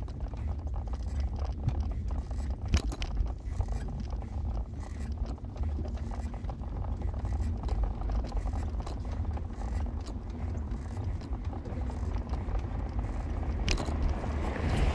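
A vehicle on the move: a steady low rumble of road and motor noise with scattered small knocks and rattles. Near the end comes a louder knock, then a rising rush of noise.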